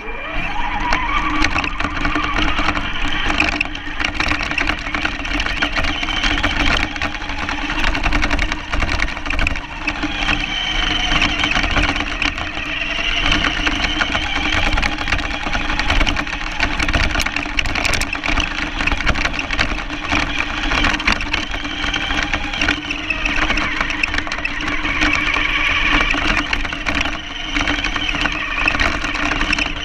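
RC car driving with the camera mounted on it: its motor whines continuously, the pitch rising and falling as the speed changes, over a constant low rumble and rattle from the chassis and wheels.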